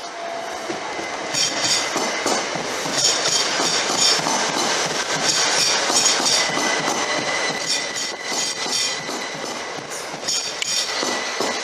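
Train rolling along the track, its wheels clicking over the rail joints, with a thin, steady, high-pitched squeal from the wheels starting about halfway through.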